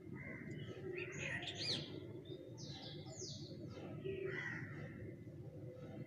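Birds calling: a string of chirps and whistled notes that sweep up and down, loudest about one and a half seconds in, over a steady low background rumble.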